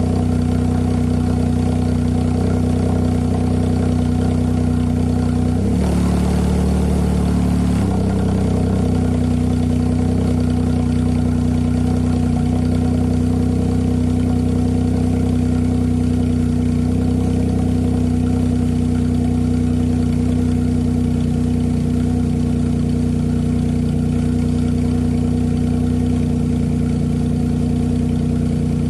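Nissan March K13's HR12DE 1.2-litre three-cylinder engine idling steadily through an aftermarket racing muffler. It gives a brief rev about six seconds in and settles back to idle about two seconds later.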